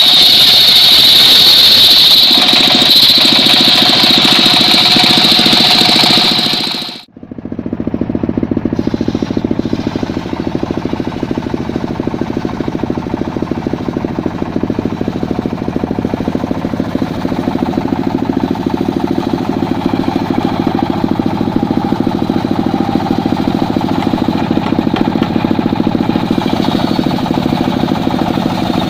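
Engine-driven circular saw cutting mahogany, with a loud, high whine for about seven seconds. It cuts off suddenly, then the engine and saw run on steadily at a lower level with a fast, even rhythm and no high whine.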